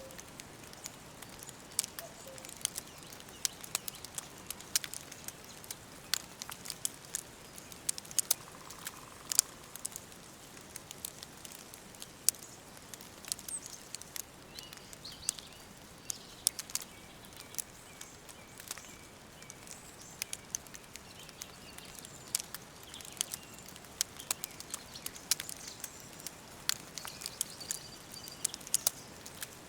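Wood fire crackling, with irregular sharp pops and snaps over a soft hiss. Faint bird chirps sound in the background through the middle and later part.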